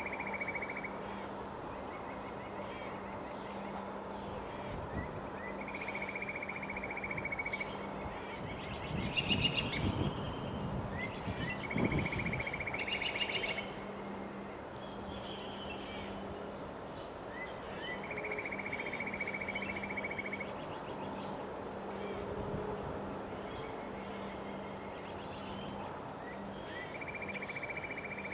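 Birds singing over a steady rush of wind. A buzzy trill held on one pitch repeats every few seconds, with a burst of louder, harsher chattering calls in the middle. A faint steady low hum runs underneath.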